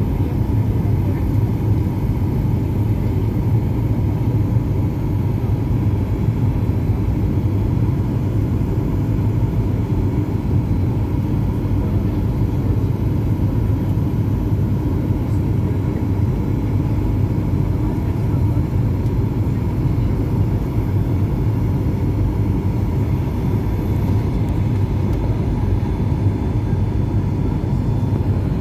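Steady low drone of engine and airflow noise inside the cabin of a Boeing 737 MAX 8-200 in flight, with its CFM LEAP-1B engines running; it stays even, with no sudden sounds.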